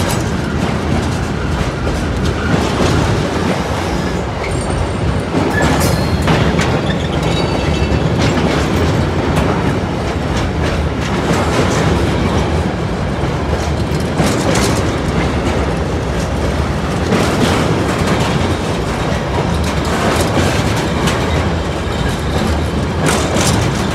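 A train passing close by, its wheels clattering over the rail joints with a steady rumble that does not let up.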